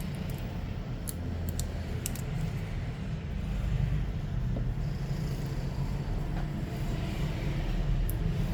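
Steady low rumble, like road traffic, with a few light clicks.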